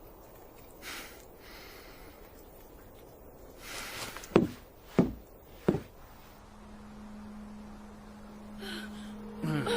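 Horror film soundtrack: two faint breathy gasps, then three heavy thuds about two-thirds of a second apart, followed by a low steady music drone that starts about six seconds in and thickens with higher tones near the end.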